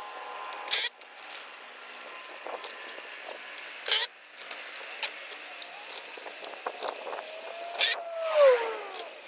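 Sped-up sounds of gutter installation work: brief, sharp, hissy bursts about every three to four seconds, scattered clicks and knocks, and a short falling whine near the end.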